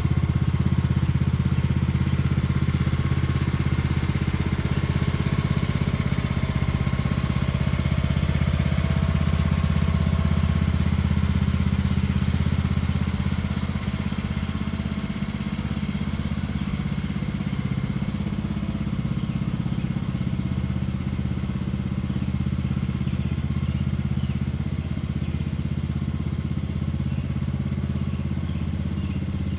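Lawn tractor engine running steadily while mowing grass, easing off a little about halfway through.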